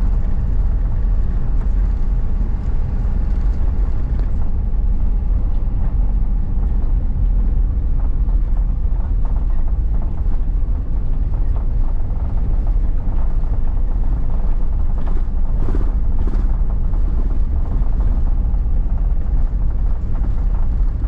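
Steady rumble of a car's engine and tyres on the road, heard from inside the cabin while driving, with a few faint clicks about fifteen seconds in.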